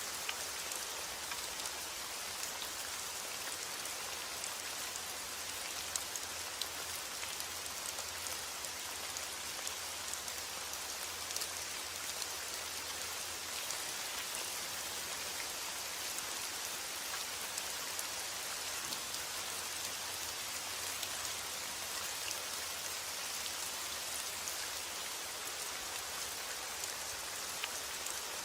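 Steady, even rain falling, with scattered individual drop ticks, used as white noise for sleep.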